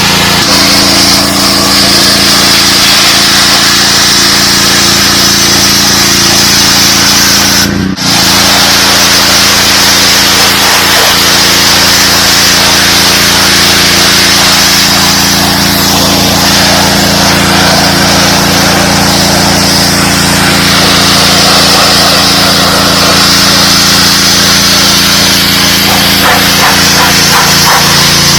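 DeWalt 3600 psi gas-engine pressure washer running steadily, its engine hum under the hiss of the high-pressure spray on concrete. There is a brief drop about eight seconds in.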